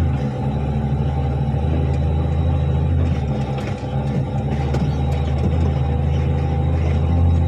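Articulated dump truck's diesel engine running; its low engine note eases off just after the start and comes back strongly near the end, with a few light clicks in the middle.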